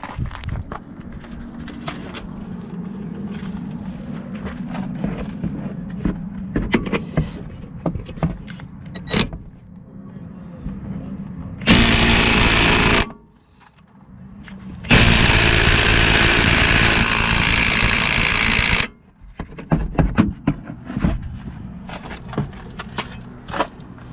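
Ryobi P263 brushed-motor 3/8-inch cordless impact wrench running in two bursts: a short one of about a second, about twelve seconds in, then a longer one of about four seconds. Each stops abruptly. Before and after, there are scattered clicks and knocks of handling.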